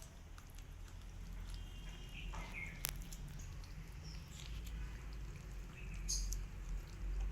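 Cat and kittens eating: scattered small clicks and one sharper click about three seconds in, with a few short, faint high squeaks, over a low steady hum.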